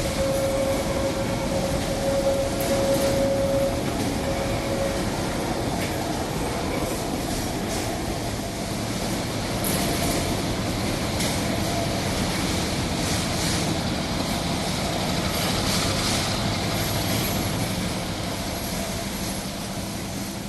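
Narrow-gauge freight train's wagons rolling past on the rails, a steady rumble with scattered clicks. A steady squeal sounds for the first few seconds, and the noise begins to fade near the end.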